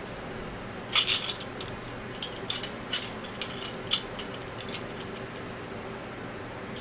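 Metal hand tools and small metal parts clinking and tapping against each other: a quick cluster of sharp clinks about a second in, then scattered single clinks over the next three seconds, over a steady low hum.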